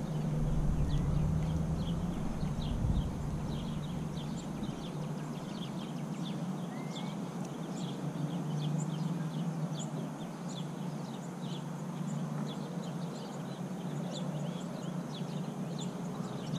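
Small birds chirping: many short, high calls scattered irregularly throughout, over a steady low hum.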